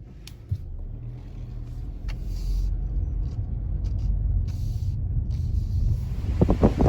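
Car driving with a low rumble of engine and road noise that grows steadily louder, with rough wind buffeting on the microphone near the end.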